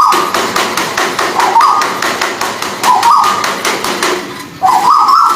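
Tuwu bird calls: short, rising, warbling phrases that repeat about every second and a half, over a dense, rapid clicking.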